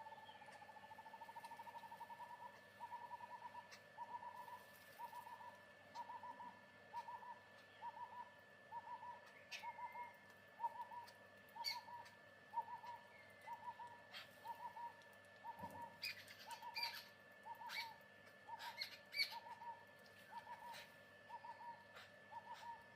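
A bird calling one short, hollow note over and over, about four times every three seconds, after a faster run of notes at the start. A steady faint high tone runs underneath, with a few sharp clicks about two-thirds of the way through.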